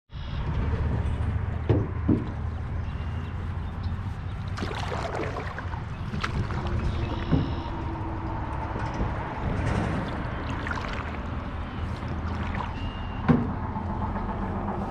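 A canoe on a creek: steady water rushing with a low wind rumble, broken by a few sharp knocks about two seconds in and once more, loudest, near the end.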